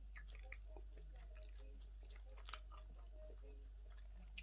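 Faint chewing and biting on chicken wings: scattered small clicks and crunches of teeth on meat and bone, over a steady low hum.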